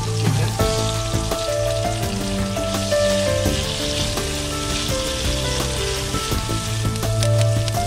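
Curry leaves and garlic sizzling in hot oil in a nonstick wok while a spatula stirs them, with occasional clicks of the spatula against the pan. Background music with a slow melody plays over the frying.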